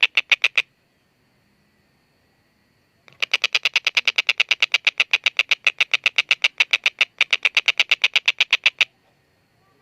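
Stork-billed kingfisher giving its rapid cackling 'kek-kek-kek' series, harsh notes at about six a second. A short run stops about half a second in, and after a pause a long run begins about three seconds in, breaks briefly near seven seconds, and continues almost to the end.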